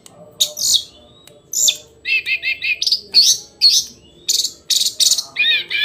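Hill blue flycatcher singing a string of short, varied high phrases, with sharp glides and a quick run of four notes about two seconds in, followed by grainier notes.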